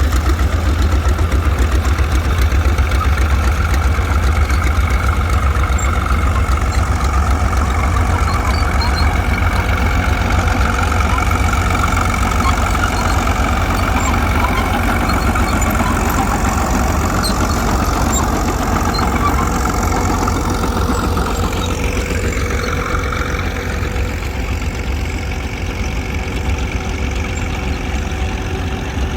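Tractor engines running steadily with a strong low throb. About two-thirds through, a higher engine note dips and then rises in pitch.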